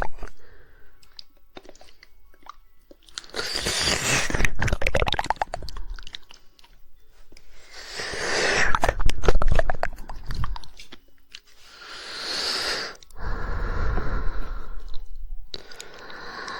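Close-miked ASMR mouth sounds: rapid 'woodpecker' tongue clicking and wet mouth noises, coming in bursts of a few seconds with short pauses between them.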